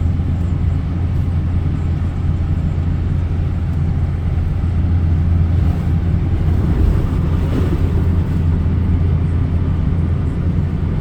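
Steady road and engine noise of a vehicle driving, a low even drone with no change in pace.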